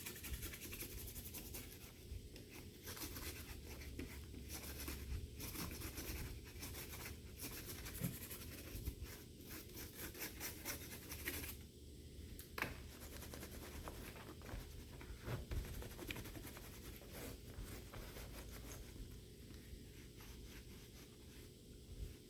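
Faint scratching, rubbing and light clicks from hands and small tools working on an opened laptop, with a low steady hum beneath.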